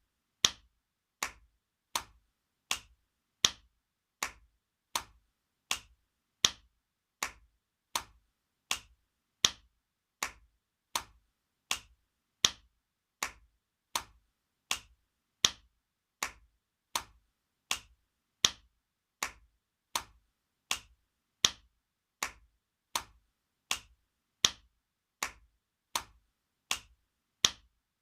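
Spanking sound effect: sharp slaps of a hand on skin, repeated at an even pace of about four every three seconds. Each slap dies away quickly, and some land louder than others.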